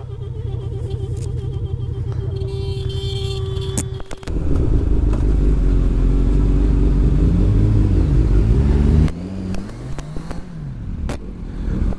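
Honda CB600F Hornet's inline-four engine idling steadily, then from about four seconds in running loud under hard acceleration, its revs climbing and dropping through the gear changes. About nine seconds in it eases off to lower revs, with one short rise and fall of revs afterwards.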